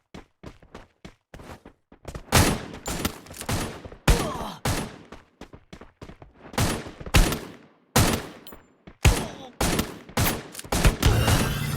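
A series of irregular sharp knocks, a few each second, each with a short ringing tail.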